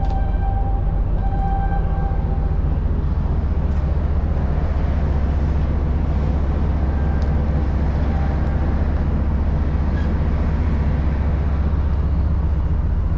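Steady, deep engine rumble with a constant low drone. A faint high whine sits on top for the first couple of seconds, then stops.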